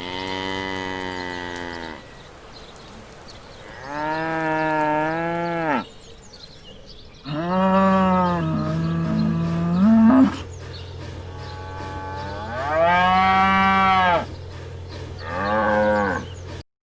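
Cattle mooing: five long moos, one after another with short pauses between them.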